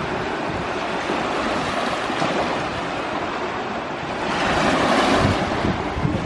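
Sea waves washing on the shore in a steady surf, with a wave surging in louder about four seconds in. Wind buffets the microphone.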